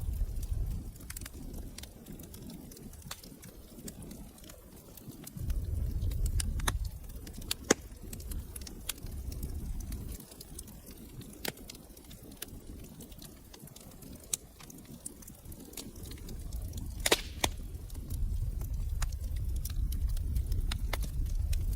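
Wood fire crackling in a fireplace: scattered sharp pops and snaps, with a louder cluster of pops about seventeen seconds in, over a low rumble that swells and fades.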